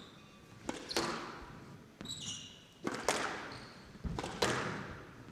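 Squash rally: racket strikes and the ball hitting the court walls, several sharp echoing hits about a second apart, with brief high shoe squeaks on the court floor about two seconds in.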